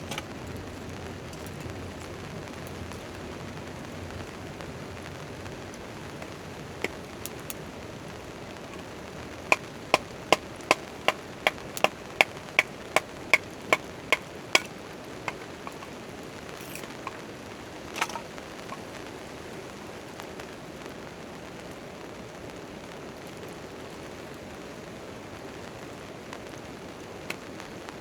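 Steady rain hiss with a run of about a dozen sharp knocks of wood being chopped, roughly two to three a second, starting about ten seconds in, and a few single knocks before and after.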